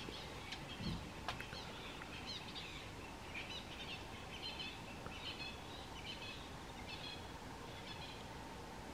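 Small birds chirping in quick short high calls, clustered from about two seconds in until near the end, over a steady outdoor hiss. A soft low thump comes about a second in.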